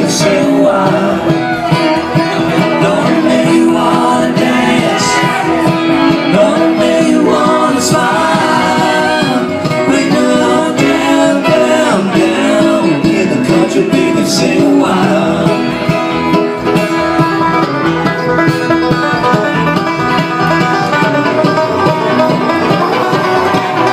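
Acoustic bluegrass band playing live, a steady full-band passage of plucked strings.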